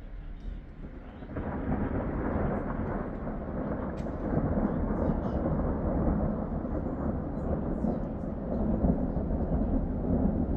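Thunder: a long rolling rumble that sets in suddenly about a second in and keeps rolling without a break.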